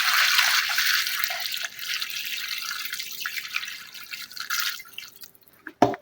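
Tap water running into a Soviet washing machine's tub, thinning to a trickle and stopping about five seconds in. A single sharp knock just before the end.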